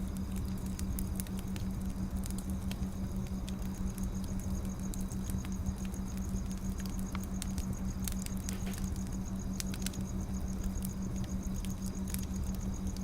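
Firewood burning with scattered sharp crackles and pops over a steady low hum.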